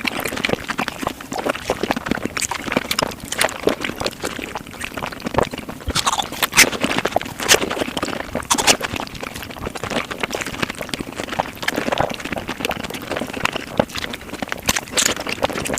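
Eating sounds sped up five times: rapid chewing and mouth smacking, a dense, fast run of crunchy clicks and crackles.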